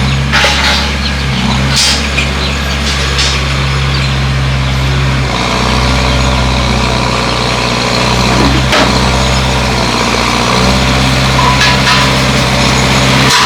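Bulldozer's diesel engine running loudly, its pitch shifting a couple of times as the load changes, with a few sharp metallic knocks.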